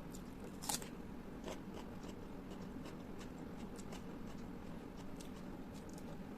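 Close-miked eating sounds: scattered soft mouth clicks and smacks of chewing, with one sharper click a little under a second in.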